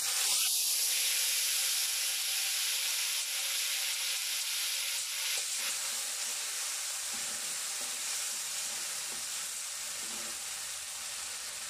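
Haleem dropped into very hot oil with browned garlic, sizzling at once as it hits and then frying steadily while it is stirred in the pan; the sizzle is strongest at first and eases slowly.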